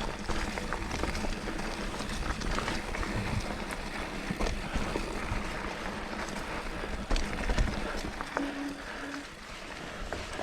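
Mountain bike riding a dirt singletrack: tyre noise on the trail with frequent rattles and knocks from the bike over bumps, and a low rumble of wind on the microphone.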